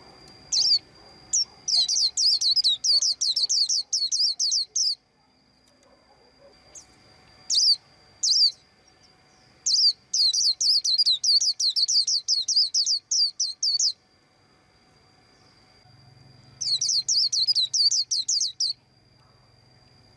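White-eye chirping: three runs of quick, high repeated chirps, each lasting two to four seconds, with a few single chirps in between.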